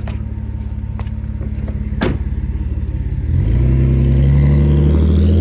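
Alfa Romeo 156's 3.0 Busso V6 through an aftermarket sports exhaust, idling with a steady pulse, then revving up a little past three seconds in, louder and with the pitch rising slowly. A single sharp knock about two seconds in.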